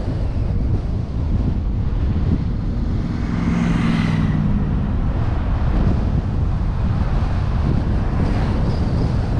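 Wind rushing over a vehicle-mounted action camera while driving, with steady low road and engine noise. About three to five seconds in, another vehicle's engine swells and fades as it passes.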